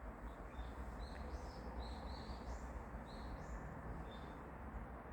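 Faint bird chirping: a run of short, high chirps, some stepping up in pitch, over a steady low background rumble.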